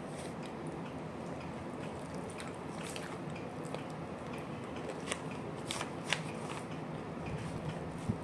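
Close-up eating sounds: chewing a mouthful of rice and fried food, with a few sharp crisp crunches and clicks scattered through, the loudest about six seconds in.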